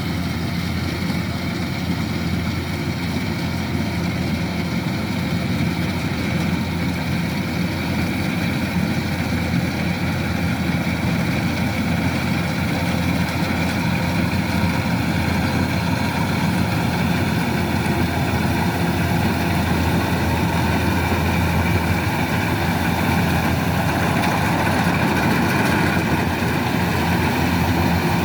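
Kubota DC-105X rice combine harvester running steadily at work, its diesel engine and machinery giving a constant drone that slowly grows a little louder.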